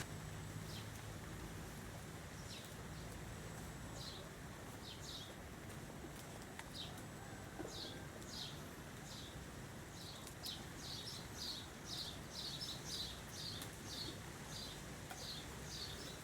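Small bird chirping: short, high, downward-sliding chirps, sparse at first and then coming quickly, several a second, through the second half, over faint low background noise.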